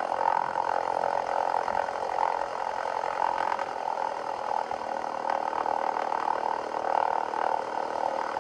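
Cessna 177B Cardinal's four-cylinder Lycoming engine and propeller running steadily at low power, a dense even drone with no break.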